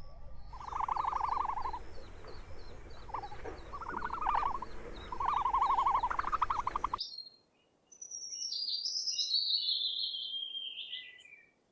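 Four pulsed trilling calls, each about a second long, over a faint rapid ticking; they are typical of a frog. The sound cuts off about seven seconds in, and a bird then sings one high phrase that falls in pitch.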